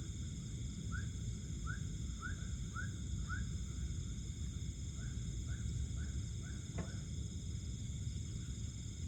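Night-time riverside ambience: a steady high-pitched insect chorus over a low rumble. Two runs of short upward chirps, about two a second, come from a calling animal, and one sharp click sounds near the end.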